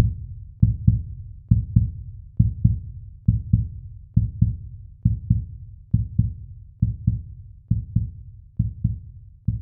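Heartbeat sound effect: pairs of low thumps, about one pair a second, repeating steadily throughout.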